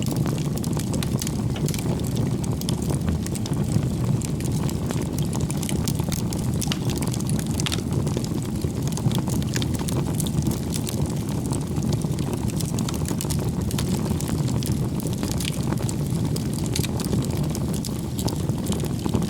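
Wood campfire burning: a steady low rumble of flame with frequent small crackles and pops from the burning logs.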